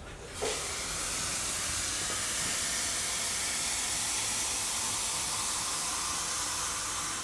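Bathroom tap running, water streaming into a cup as it is filled: a steady, even hiss that starts a moment in and stops abruptly near the end.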